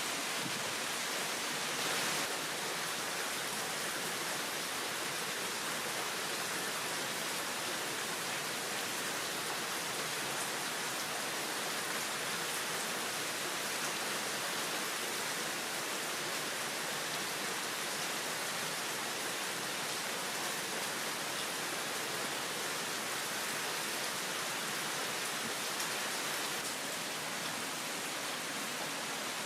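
Heavy rain falling steadily in a downpour, an even hiss with no let-up.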